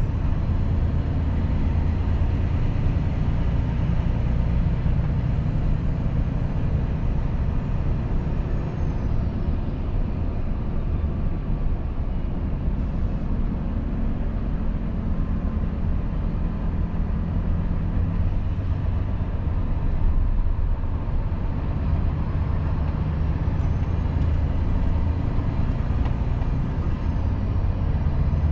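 Volvo FH 500 truck's 13-litre inline-six diesel running steadily while driving, a constant low drone heard from the cab. Its pitch shifts slightly midway, and a faint high whine slides down and later back up.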